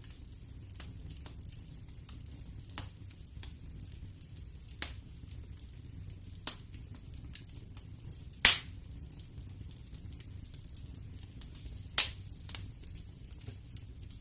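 Wood fire crackling in a fireplace: scattered sharp pops and snaps over a low steady rumble, the two loudest pops about eight and a half and twelve seconds in.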